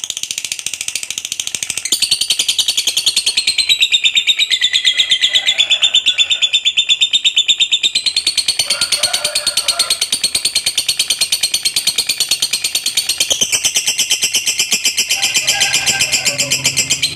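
Lovebird singing a long, unbroken 'ngekek': a rapid, high-pitched chattering trill that never pauses, its pitch dropping and rising a few times. This is the extended ngekek prized in competition fighter lovebirds.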